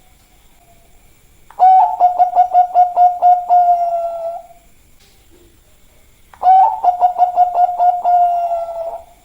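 Zebra dove (perkutut, Bangkok song type) cooing: two song phrases, each a quick run of short stuttering notes that runs into a longer held coo, about two seconds apart.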